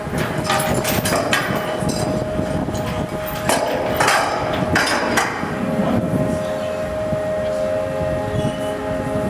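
Ferry docking in its slip: the ship's machinery drones with a steady held tone, and a run of about eight sharp knocks and clanks sounds in the first five seconds before the drone carries on alone.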